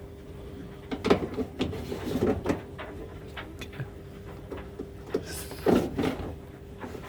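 Plastic knocks and clatters from the tumble dryer's lint filter being handled, a few around the first two seconds and a louder cluster near the end, over a steady low hum.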